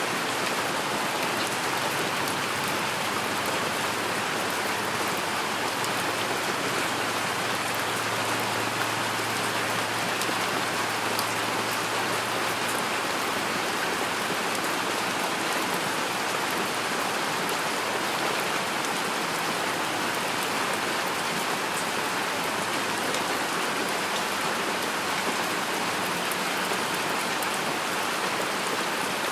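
Steady rain falling, an even, continuous hiss of many drops without a break.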